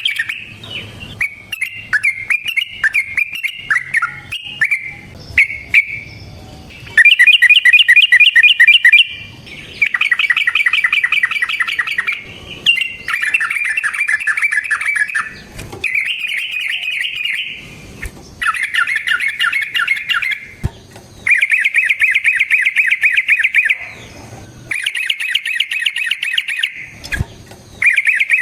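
Yellow-vented bulbul (trucukan) singing: a few varied short phrases at first, then a series of loud, fast chattering runs of rapid repeated notes, each lasting one to three seconds with short pauses between.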